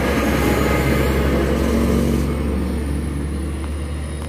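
Toyota Wigo's engine just started, running slightly faster for the first couple of seconds, then settling to a steady idle.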